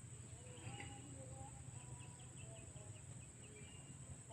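Faint rural ambience of wild birds calling: a quick run of about eight short, high chirps about two seconds in, among scattered faint whistled notes, over a steady high-pitched drone.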